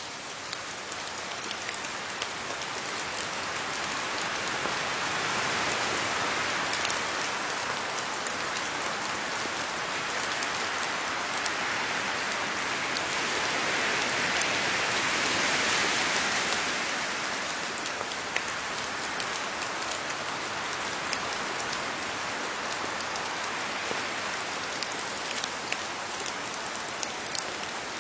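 Steady rain falling on leaves: a continuous hiss with scattered sharp drip ticks, swelling slightly twice as the rain briefly gets heavier.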